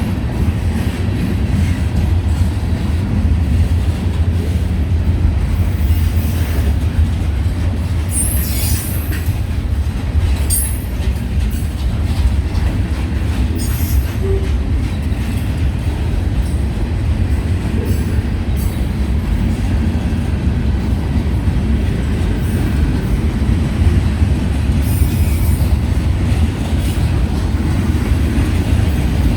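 Long CSX freight train's railcars rolling past, a steady loud rumble of wheels on rail with several short high-pitched wheel squeals.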